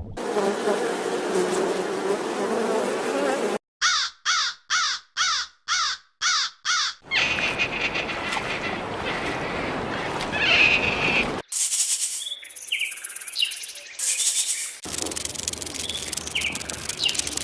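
Animal calls from several short recordings spliced together with abrupt cuts: a run of about eight quick repeated calls, a noisy stretch, then high, brief bird chirps.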